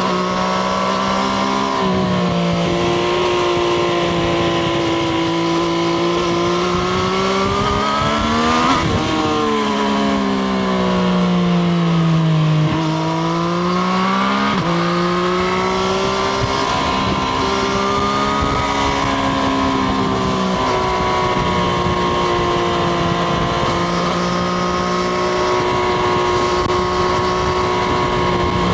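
Triumph Street Triple RS's 765 cc inline three-cylinder engine heard onboard while riding: the engine note climbs to a peak about nine seconds in, falls away over the next few seconds, jumps up in pitch a little later, then holds fairly steady.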